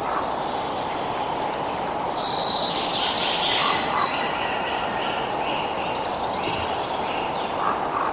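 Birds singing over a steady rush of running water. One bird gives a loud descending phrase a few seconds in, followed by a run of short repeated notes, about two a second; fainter chirps come near the start and end.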